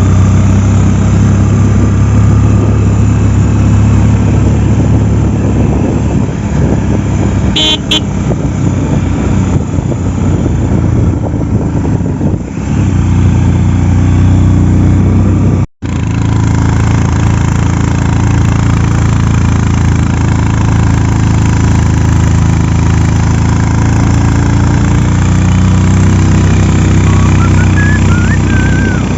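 Motorcycle engine running steadily under way. A short horn toot sounds about eight seconds in, and the sound drops out for an instant just past the middle.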